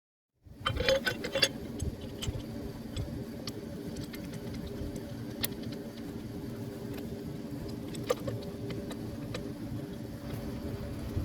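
Metal clinks and clicks of hand tools working on a pickup's starter solenoid, clustered about a second in and then only now and then, over a steady mechanical hum.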